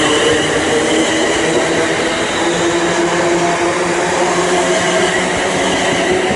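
Class 350 Desiro electric multiple unit pulling away, its traction motors whining in several steady tones over the rumble and hiss of the train.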